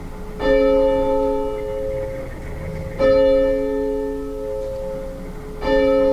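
Church bell tolling to open worship: a single bell struck three times, about two and a half seconds apart, each stroke ringing on and fading.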